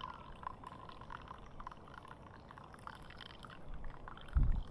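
Water pouring into a mug of strong AeroPress coffee concentrate to dilute it, with a faint trickle and small drips. A brief low rumble near the end.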